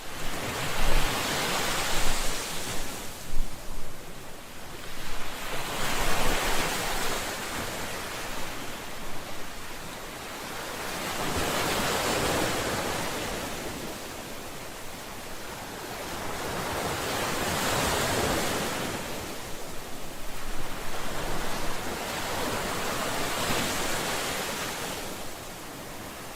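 Ocean waves breaking on a shore. Each wave swells and washes back, about every five to six seconds.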